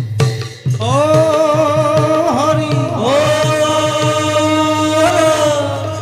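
Devotional theatre music: a voice holds one long sung note with vibrato, sliding briefly twice, over a steady hand-drum beat.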